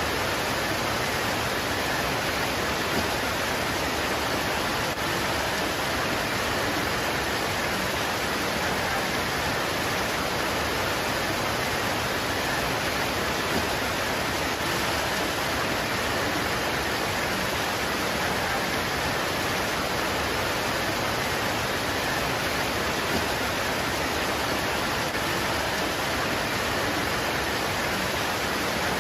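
Heavy rain pouring onto leaves, a steady, even hiss with no let-up.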